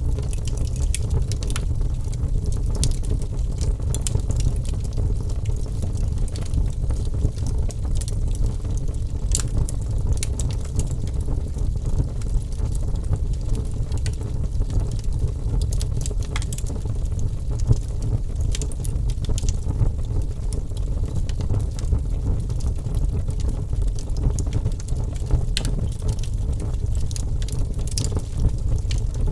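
Wood fire crackling: many sharp, irregular pops and snaps over a steady low rumble from the flames.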